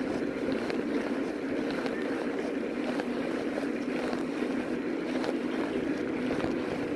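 Steady rushing noise of an electric fat-tire bike under way: wind on the microphone and road noise from the tyres, with a few faint ticks.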